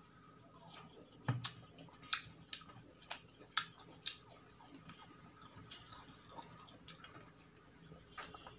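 Close-miked eating: wet mouth clicks and smacks of chewing, a dozen or so sharp irregular clicks, the loudest bunched between about one and four seconds in.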